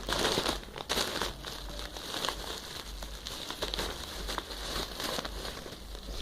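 Shopping bag of sweets crinkling and rustling as it is opened and rummaged through by hand, a run of irregular crackles.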